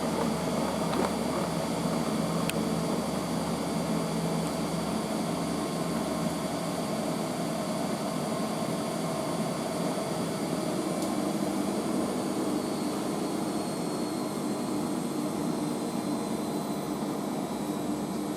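Washing machine drum in a high-speed spin after the wash, a steady smooth whir with a few held tones, which the owner puts at about 800 RPM.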